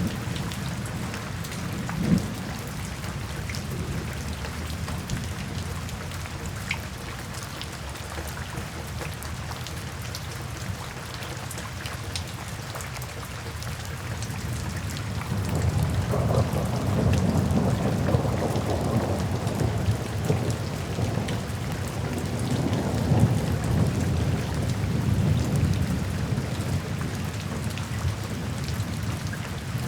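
Steady rain falling, with a long low roll of thunder that swells about halfway through and fades out over roughly ten seconds.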